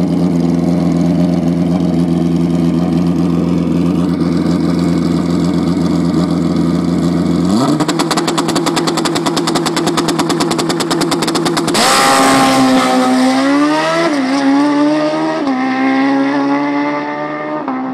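Drag-racing motorcycle engine running steadily on the start line, then raised to a higher held rev with a rapid stutter, then launching hard about twelve seconds in. The pitch climbs, drops at two gear changes and fades as the bike runs off down the strip.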